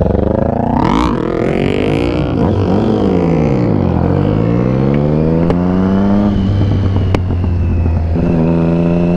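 Motorcycle engines running and revving: the pitch climbs sharply about a second in, then sweeps down and up again as two engines overlap, and settles to a steadier lower note near the end. A low steady rumble runs underneath.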